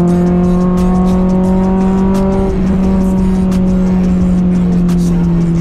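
Honda Civic Nouva's four-cylinder VTEC engine pulling hard in third gear, heard from inside the cabin, its note rising slightly and then steadying about halfway through. Music is mixed in underneath.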